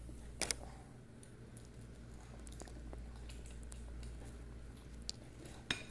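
Quiet chewing of pizza, with a few small sharp clicks, over a low steady hum.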